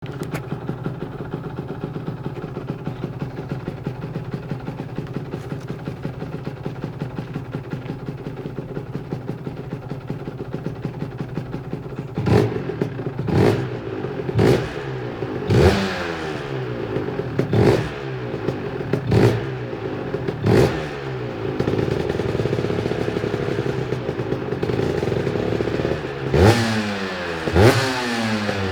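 Aprilia RS 125's two-stroke single-cylinder engine, just started, idling with a fast even beat, then blipped through a string of quick revs about one a second. It settles to a faster idle, with two more sharp revs near the end.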